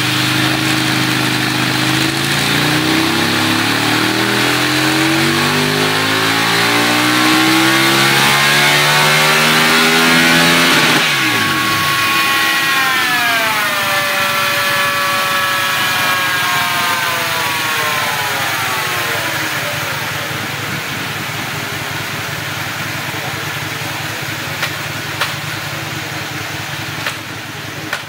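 2004 Aprilia Tuono's 60° V-twin, breathing through a full Akrapovič 2-2 racing exhaust, on a dyno pull: the revs climb steadily at full throttle for about eleven seconds. Then the throttle shuts and the revs fall away over several seconds as it winds down.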